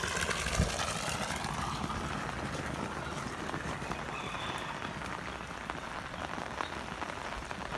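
Steady rush of water from an overflowing rainwater tank, more than its outlet pipe can carry, with rain falling.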